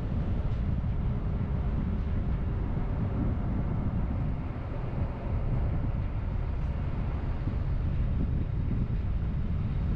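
A car driving on the road: a steady low rumble of engine and tyre noise, dipping briefly about halfway through.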